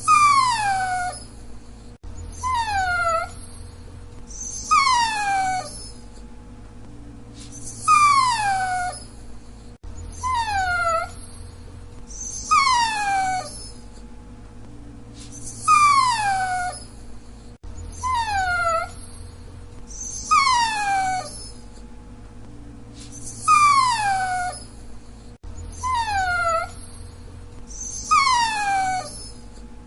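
Dachshund whining: high-pitched whimpers that each slide down in pitch over about a second, coming three at a time in a pattern that repeats about every eight seconds.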